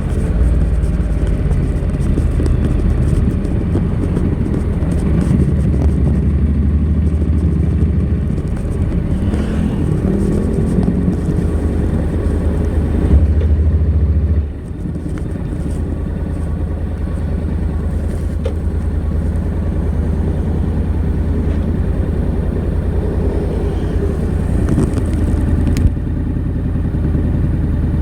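Honda NC700X's parallel-twin engine running through its stock exhaust as the motorcycle is ridden, a steady low engine note. The pitch shifts several seconds in, and about halfway through the level drops suddenly, as when the throttle closes or a gear changes, before settling back to a steady run.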